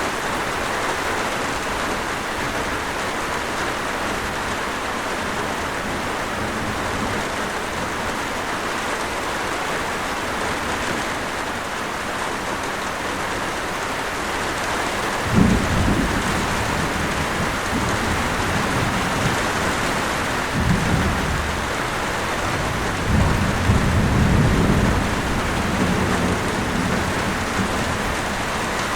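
Steady rain falling in a constant hiss. Thunder breaks in with a sudden low clap about halfway through, followed by shorter rumbles and a longer roll near the end.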